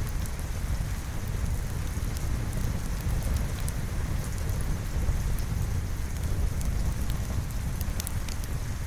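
Steady rain with a deep, constant low rumble beneath it and scattered faint, sharp crackles on top.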